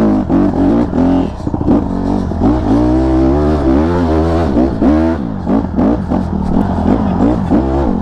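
Dirt bike engine revving hard, its pitch rising and falling over and over as the throttle is worked on and off under load on a muddy hill climb.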